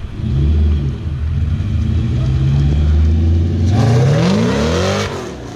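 Terminator-swapped 2001 Mustang GT's supercharged 4.6-litre V8 running loudly at low revs, then revving up with a steeply rising pitch a little under four seconds in, falling back near the end.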